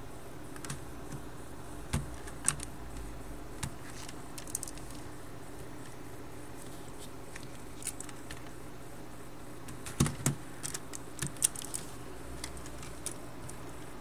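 Scattered light plastic clicks and knocks from a hand-pushed LEGO guided-rail transit train model, over a steady low hum. A cluster of the loudest knocks falls about ten seconds in.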